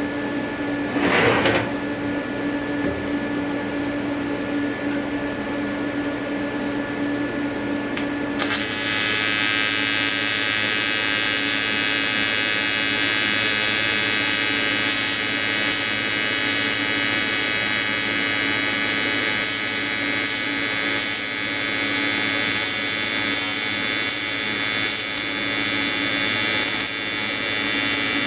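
An AC TIG welding arc from an Everlast 325EXT on square wave strikes about eight seconds in and buzzes steadily, welding aluminium under pure argon. Before it, a steady hum.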